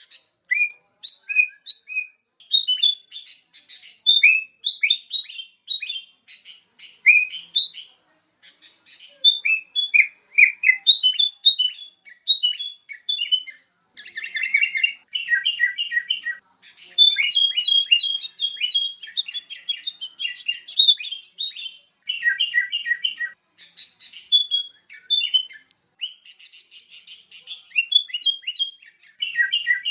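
Sooty-headed bulbul (Pycnonotus aurigaster) singing: rapid runs of short, liquid chirping notes with brief pauses between phrases.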